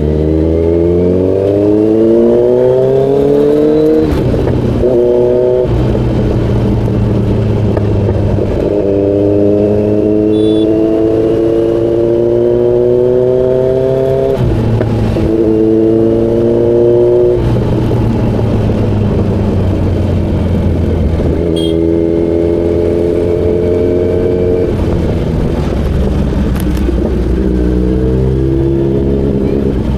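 Kawasaki Z900's inline-four engine pulling hard, its pitch climbing in several long sweeps, each broken off by a sudden drop before it climbs again, over a steady low rush.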